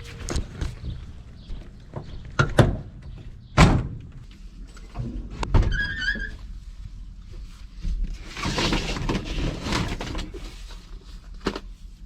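Knocks and thuds from working inside a car's interior, with a stretch of rustling and scraping about eight seconds in; the loudest thuds come a few seconds in. A brief high chirp sounds about halfway through.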